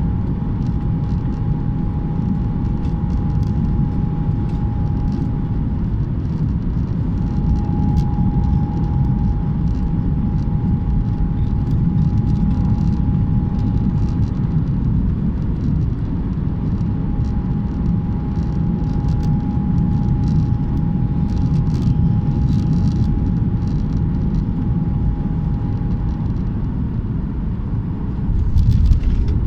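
Jet airliner cabin noise: a steady low roar of engines and airflow, with a thin steady whine that fades in and out. The roar grows louder near the end.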